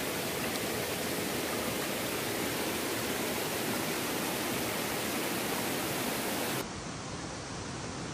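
Waterfall cascade rushing steadily. About six and a half seconds in it suddenly turns quieter and duller.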